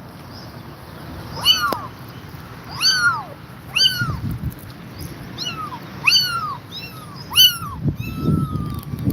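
Kittens mewing: short, high-pitched cries that rise and fall, repeated every second or two, sometimes two at once. A low muffled noise comes in near the end.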